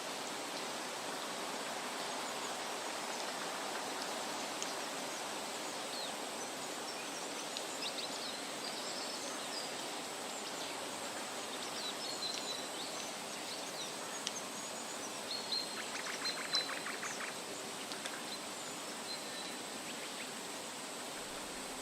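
Forest ambience: a steady rushing hiss of running water or wind in the trees, with scattered short high bird chirps and a brief rapid trill about sixteen seconds in.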